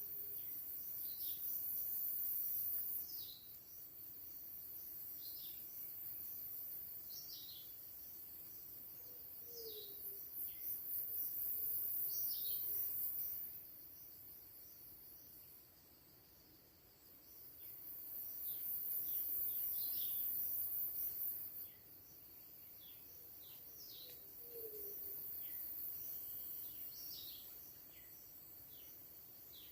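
Tropical forest ambience: a high-pitched insect drone that swells and fades every several seconds, with many short, falling bird chirps throughout.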